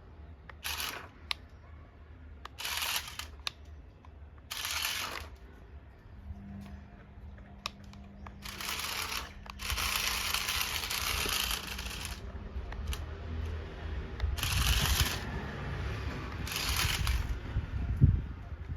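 Repeated bursts of crackling, scraping noise, like an egg crate being dragged and crushed. The longest burst runs for about three seconds in the middle, and a low rumble builds toward the end.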